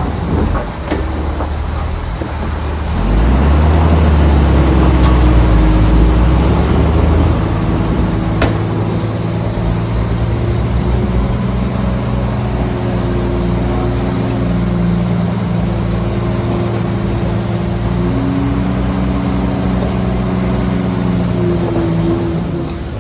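Heavy diesel engine of earthmoving equipment running. About three seconds in it goes louder and deeper for a few seconds, as if under load, then settles to a steady drone.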